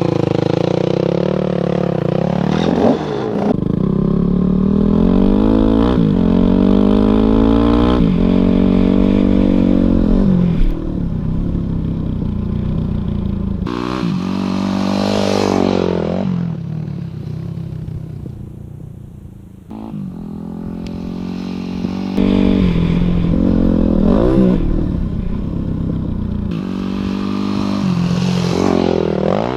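Yamaha WR250F dirt bike's single-cylinder four-stroke engine under hard throttle, revving up in repeated rising sweeps that fall back at each gear change. It eases off about two-thirds of the way through, then accelerates again.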